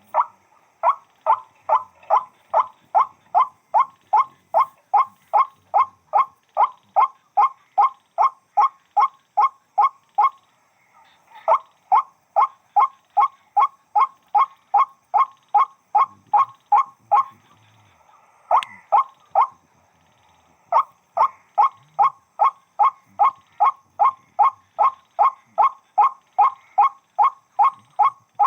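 White-breasted waterhen giving its repeated call, short loud notes about two a second, with two brief pauses partway through.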